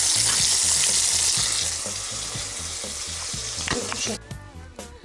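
Chicken-heart chops coated in egg and flour sizzling in hot oil in a frying pan, a steady hiss that eases a little about two seconds in and cuts off abruptly near the end.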